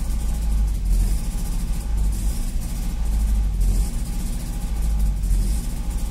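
Nissan SR20 low-port 2.0-litre four-cylinder engine running cold at a fast idle of about 1,800 rpm, with an uneven, wavering note. This is the unstable idle the engine shows after sitting unused for several days.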